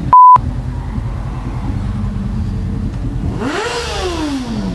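A short, loud censor bleep, then a motorcycle engine running steadily under the ride, with an engine revving up and falling back down near the end.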